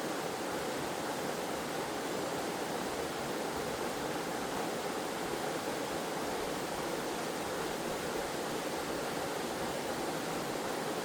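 Waterfall and stream water rushing steadily, an even unbroken roar with no changes.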